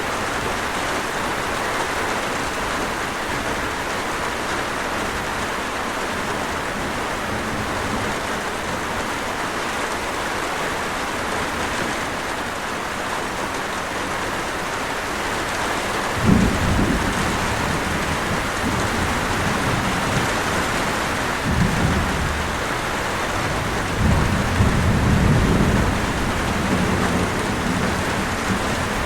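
Steady heavy rain hissing throughout. Thunder rumbles low several times in the second half: a sudden clap-like onset just past the middle, then two more rolls near the end.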